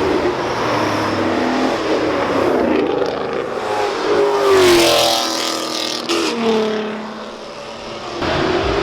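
A car engine accelerating hard as it pulls away past the listener. Its pitch climbs and drops back several times as it shifts, and it is loudest about halfway before fading. Another engine rises near the end.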